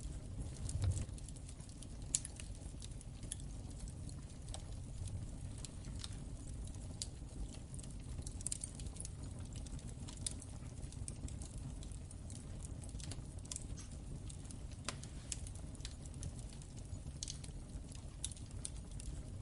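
Wood fire crackling in a fireplace: irregular sharp pops and snaps over a steady low rumble of the flames, with a soft low thump about a second in.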